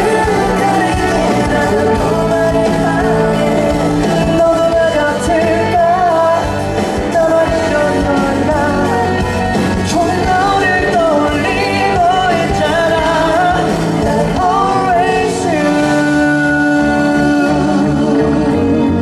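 Live pop-rock ballad played by a band in a concert hall, with a singing voice carrying a wavering melody over it.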